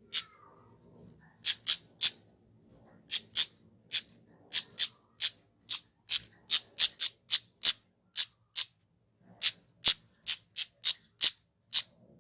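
Flowerpecker (kemade) calling: a run of sharp, very short, high call notes, about two a second and unevenly spaced, some in quick pairs, after a short pause about a second in.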